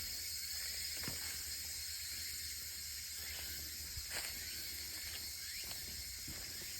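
Steady high-pitched insect chorus in woodland, with a low rumble underneath and a few faint knocks.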